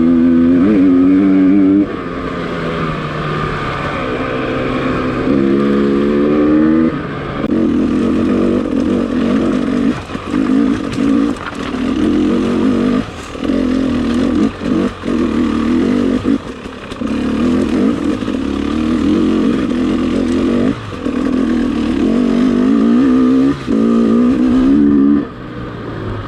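Dirt bike engine running under load, rising in pitch as it revs up, with the throttle shut off briefly many times and opened again.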